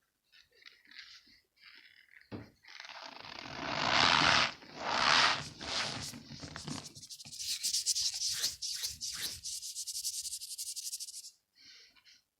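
Hands squeezing and crumbling big balls of packed cornstarch. Quiet crunches build to two loud rubbing crunches, then a long run of rapid fine squeaks begins about seven seconds in and cuts off suddenly near the end.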